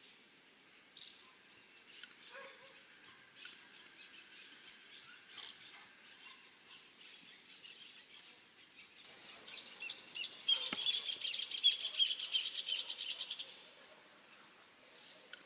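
Small birds chirping on and off, then a fast, continuous bird trill of rapid high notes lasting about four seconds past the middle.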